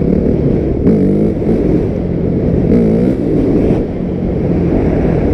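A 250 dirt bike engine running, revved up and back down twice: once about a second in and again around three seconds in.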